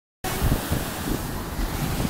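Steady rushing noise of churning water with wind buffeting the microphone, cutting in abruptly a moment in.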